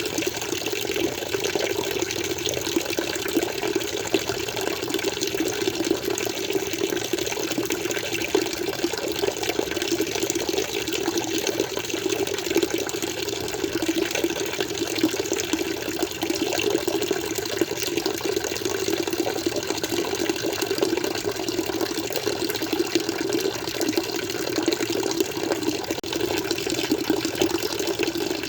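Water flowing steadily and without a break, a continuous rushing splash with no pauses or changes.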